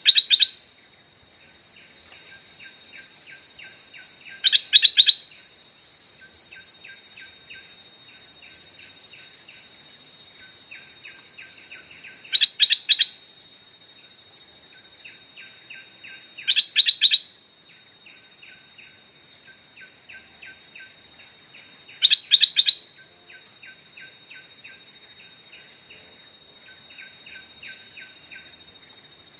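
Stripe-throated bulbul calling: five loud bubbly phrases of a few quick notes, each about a second long and several seconds apart, with a quieter rapid ticking chatter between them. It is a caged decoy bird calling to lure wild bulbuls.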